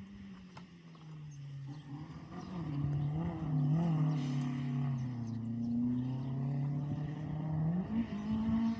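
Rally car engine on the move, its note rising and falling with throttle and gear changes. It grows louder over the first few seconds as the car comes closer, dips in pitch in the middle and climbs again near the end.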